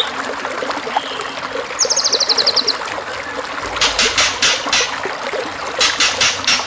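Birdsong recording over the steady trickle of running stream water: a rapid high trill about two seconds in, then from about four seconds in, bursts of fast, harsh high-pitched notes at about five a second.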